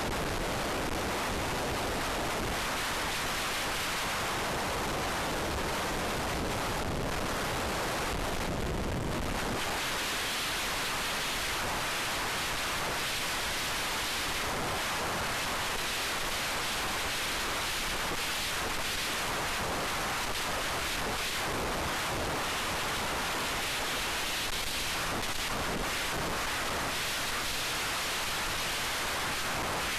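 Steady wind rush over the FPV wing's onboard camera microphone in high wind. It is an even hiss and rumble with no clear motor tone, and the low rumble eases about nine seconds in.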